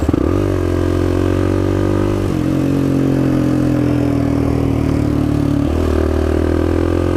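Suzuki LTZ400 quad's single-cylinder engine running under way at a steady pitch, which steps down about two seconds in and back up near six seconds in.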